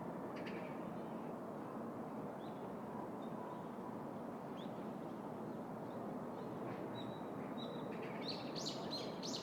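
Steady background hum of a city park with small birds chirping now and then over it, a quick run of chirps near the end.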